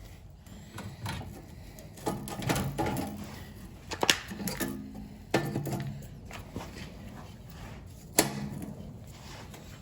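Hand work on metal parts: scattered sharp knocks and clatter, three of them louder (about four seconds in, about five seconds in, and near the end), each followed by a short ringing tone, with softer rubbing in between.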